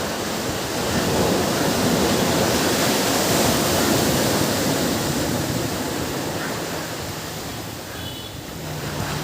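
Ocean surf washing onto a beach: a steady rush of water that swells about a second in, then slowly ebbs before building again at the end.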